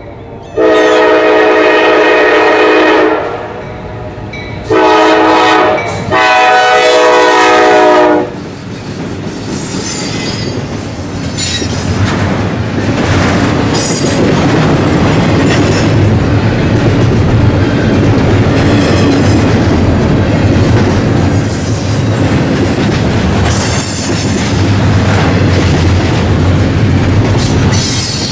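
CSX freight locomotive's air horn sounding three blasts, long, short and long, then the train passing close by: a steady rumble with wheels clattering over the rail joints and bouts of high-pitched wheel squeal.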